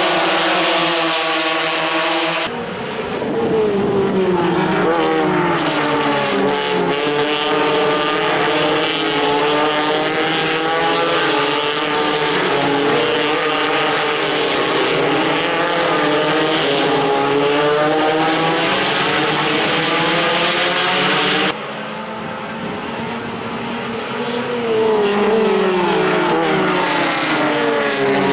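Circuit racing cars' engines running hard at high revs, pitch rising and falling as the cars shift gear and go by. The sound changes abruptly about two and a half seconds in and again about three-quarters of the way through.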